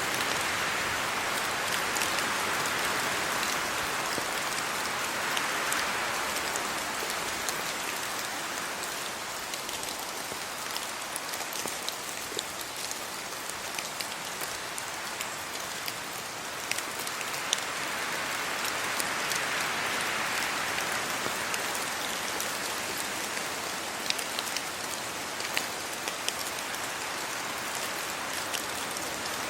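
Steady rain falling, with a dense hiss and scattered sharp drips of single drops; the hiss swells and eases a little twice, as gusts of wind move through the trees.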